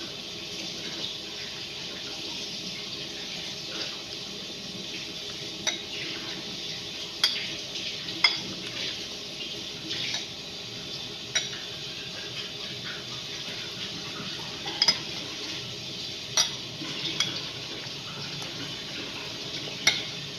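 Cutlery clinking against a dish while eating: about ten sharp clinks at irregular intervals over a steady background hiss.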